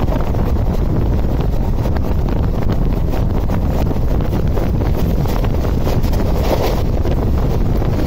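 Wind rushing over the microphone at an open coach door, over the steady running noise of a passenger express train moving at speed.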